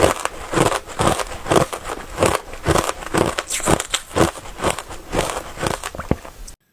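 Close-miked biting and crunching of crushed ice, one sharp crunch after another at about two a second. The crunching cuts off abruptly near the end.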